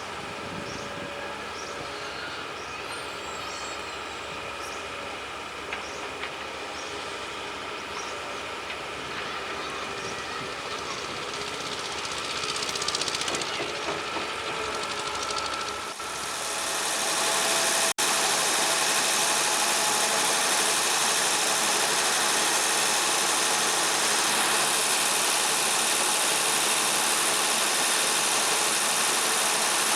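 Caterpillar 320B excavator's diesel engine running steadily. About halfway through, the sound cuts suddenly to a louder, hissier running.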